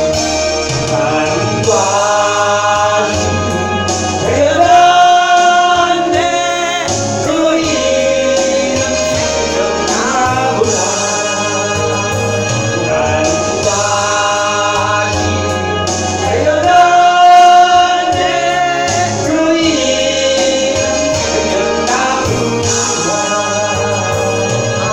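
Congregation singing a praise hymn with keyboard accompaniment.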